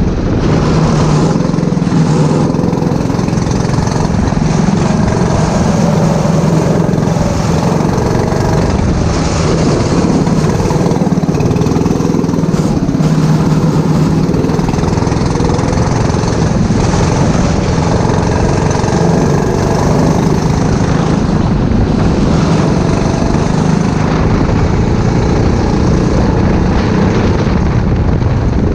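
Go-kart engine running continuously at racing speed, its pitch shifting a little as it goes.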